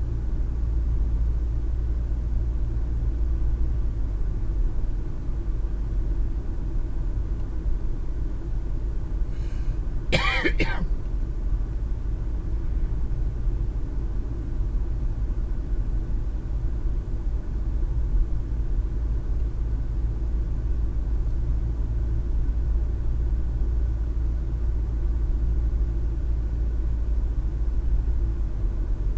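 Car driving on the road, a steady low rumble of engine and tyre noise heard inside the cabin. About ten seconds in, someone in the car gives one short cough.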